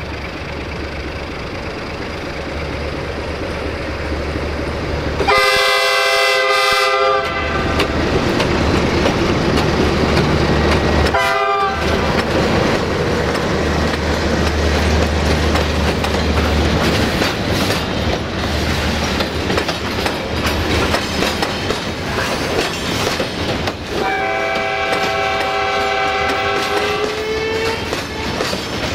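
A 060-DA (LDE2100) diesel-electric locomotive hauling a freight train of rail-loaded flat wagons past, its engine making a low rumble. A chord-like locomotive horn sounds for about two seconds around five seconds in, gives a short toot around eleven seconds, and sounds a longer blast from about 24 seconds, its lowest note rising as it ends. In the second half the wagon wheels click over the rail joints.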